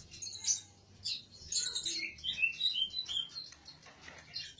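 A songbird singing: quick sharp chirps, then a run of short clear whistled notes from about two seconds in.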